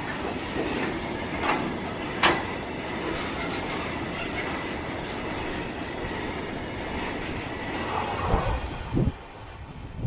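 BTPN petrol tank wagons of a freight train rolling past close by: a steady rumble of steel wheels on rail with sharp clacks as the wheels cross rail joints. A couple of low thumps come near the end as the last wagon goes by, and then the sound drops off.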